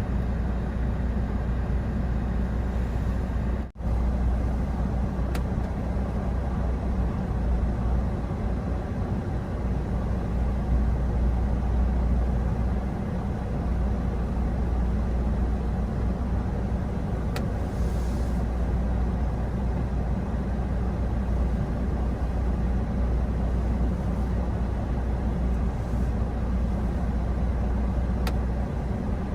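Steady low rumble of engine and road noise heard from inside a moving vehicle. The sound drops out for an instant about four seconds in.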